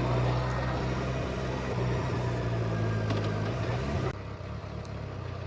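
Motorcycle engine running at a steady speed with road noise; the sound drops abruptly to a quieter, lower hum about four seconds in.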